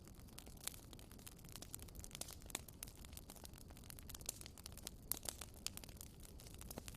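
Campfire crackling: faint, irregular snaps and pops over a low, steady rumble, with a few louder pops about five seconds in.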